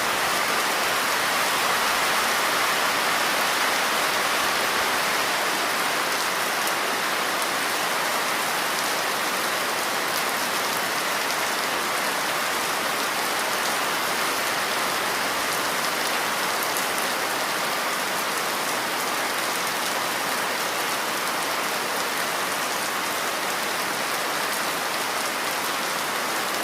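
Steady heavy rain falling, an even hiss of many drops with faint scattered patter.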